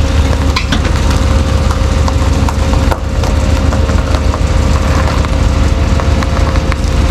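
Tow truck's engine running steadily to power its winch while it pulls a car up a slope, with a steady whine over the low rumble and scattered light clicks.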